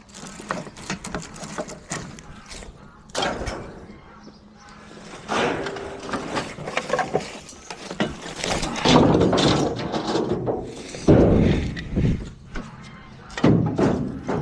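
Repeated knocks, clatter and thuds of junk and debris being handled and tossed, with the loudest, densest stretch in the second half.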